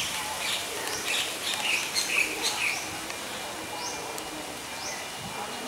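Small birds chirping: a busy cluster of chirps in the first few seconds, then one short call repeated about every second.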